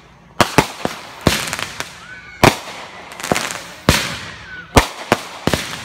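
Aerial fireworks going off: about ten sharp bangs in irregular succession, some followed by a short crackling tail.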